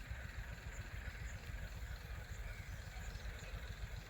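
Low steady background rumble with a faint hiss, and a faint short chirp about two and a half seconds in.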